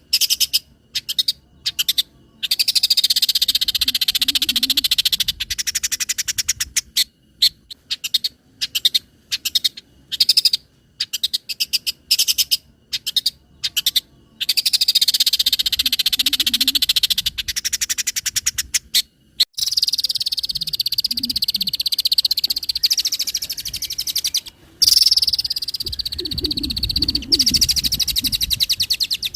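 Long-tailed shrike (cendet) singing its song with copied calls of other birds: runs of quick, sharp ticks alternate with long, fast high trills, and a lower rasping passage comes near the end.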